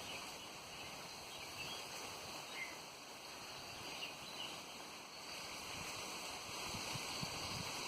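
A few short, high bird chirps scattered over a steady rush of wind, with wind buffeting the microphone near the end.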